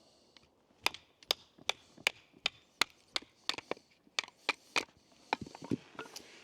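A Petromax carbon-steel bushcraft knife splitting a piece of firewood into kindling: a run of about fifteen sharp wooden knocks, two or three a second, starting about a second in.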